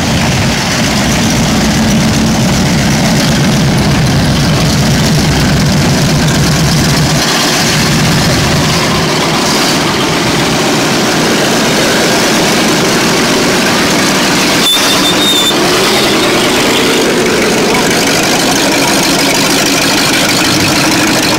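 Demolition derby car engines running loud at low speed as the cars drive slowly past, the first from a lifted pickup with a deep low rumble for about the first seven seconds. After that come derby cars whose exhaust pipes stick straight up through the hood.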